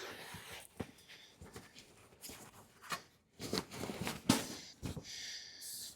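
Scattered knocks, clicks and rustling from a pickup bench seat being taken apart by hand, with a short steady hiss near the end.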